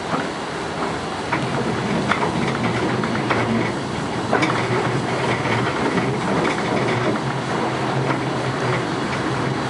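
Steam-hauled train running along the rails, heard from its leading end: a steady rumble of running gear with irregular clicks of the wheels passing over rail joints.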